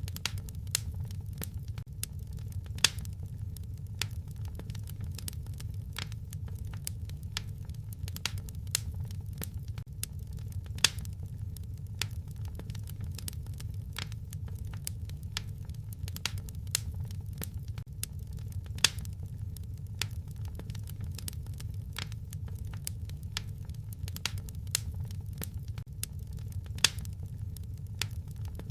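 Wood fire crackling in a fireplace: a dense scatter of small snaps and pops over a low, steady rumble, with a louder pop about every eight seconds.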